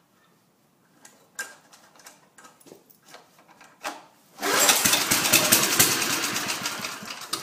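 Small lawnmower engine catching suddenly about four and a half seconds in after a few light clicks of handling, firing rapidly and loudly for about three seconds, then fading as it dies near the end.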